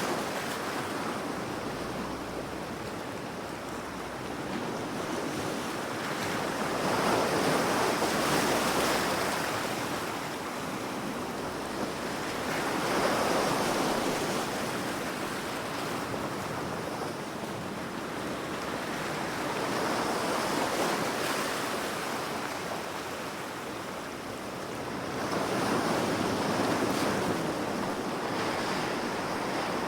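Ocean waves breaking and washing up the shore, a steady rush that swells and ebbs every several seconds, with some wind.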